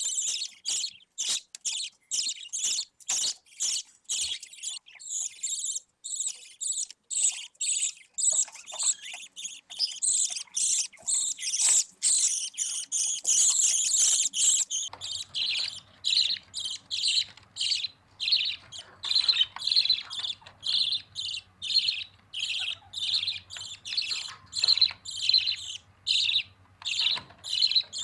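Budgerigar chicks calling: short high chirps repeated about two to three times a second without a break. About halfway through the calls become lower and more even, and a faint low hum starts under them.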